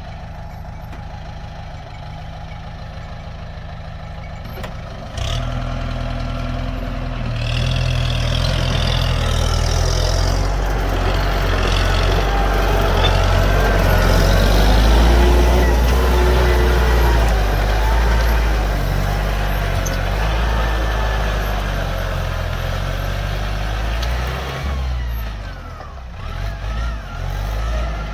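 Diesel tractor engine running. About five seconds in it gets louder and works harder, its pitch wavering up and down for a stretch, then it eases off and turns uneven near the end.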